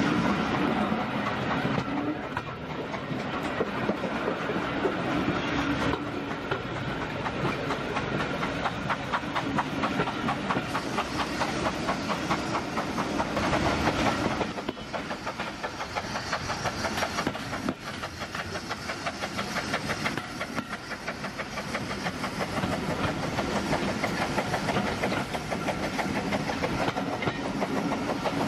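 Steam-hauled heritage train coaches running along the line, heard from a carriage window: steady wheel-on-rail noise with rapid clickety-clack.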